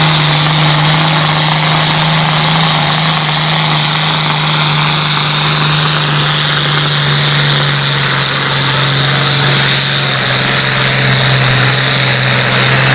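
Pulling tractor's engine running hard at steady high revs during a pull, with a high whine over the engine note; the pitch sags a little in the second half.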